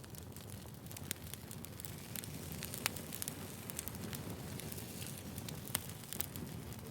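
Firewood burning, with a steady low rumble and frequent sharp crackles and pops. A couple of louder pops stand out, about three seconds in and near the end.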